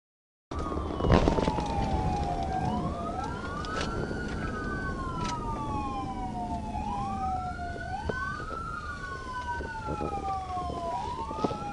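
Police car siren on wail, rising quickly and falling slowly in a cycle every three to four seconds, over steady road and engine noise. A sharp knock sounds about a second in.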